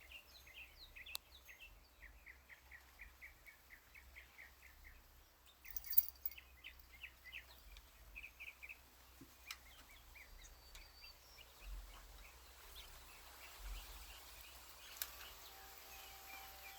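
Backyard songbirds chirping faintly: a bird repeats rapid series of short, high chirps, several notes a second, with pauses between series. A sharp click about six seconds in, and faint wind chime tones begin near the end.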